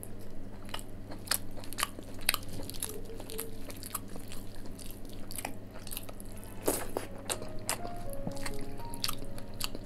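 A person chewing and biting food, with frequent short wet mouth clicks and the squish of fingers mixing rice with curry. Soft background music runs underneath, with a melody coming in during the last couple of seconds.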